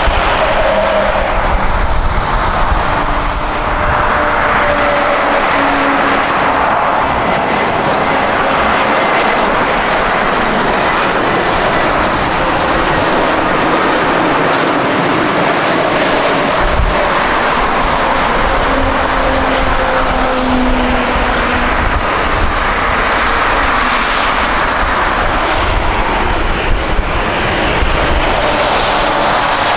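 Jet airliner engines close by, a loud, steady jet noise throughout, with faint tones that slowly fall in pitch.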